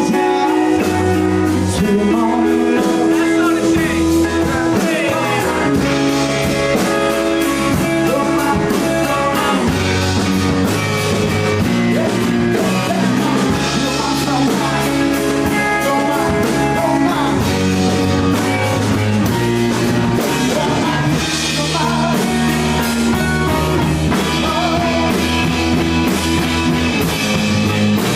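A blues-rock band playing: electric guitar over a low bass line and drum kit, with singing.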